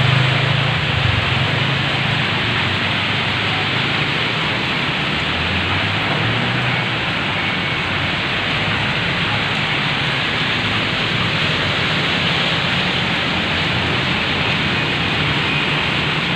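Heavy rain pouring down in a dense, steady hiss, with a low rumble underneath that is strongest in the first few seconds.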